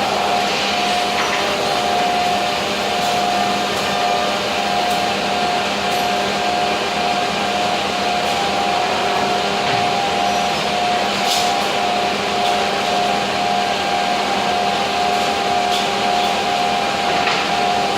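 Weeke BMG 111 CNC wood machining centre running: a steady whine over a rushing noise, with a few faint clicks.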